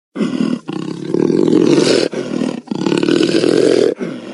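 Tiger roaring: a series of deep roars in four or five stretches, broken by short pauses.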